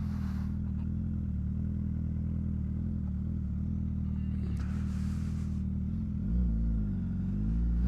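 Motorcycle engine running at low revs while rolling slowly, a steady idle note that dips and climbs again near the end. A brief hiss about five seconds in.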